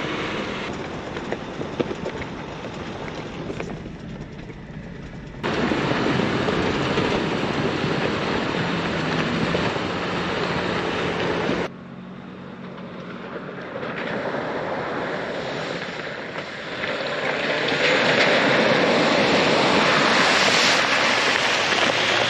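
Vehicle driving noise, a steady rush without clear tones, in edited clips. It jumps abruptly louder about five seconds in, drops sharply near twelve seconds, then builds again toward the end.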